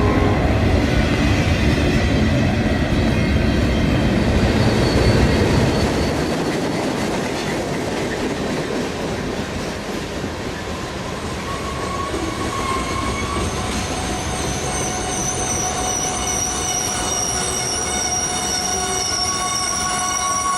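Sound effect of a full-size train rolling along the rails: a loud low rumble for about the first six seconds, then quieter running, with steady high-pitched wheel squeal building over the last third.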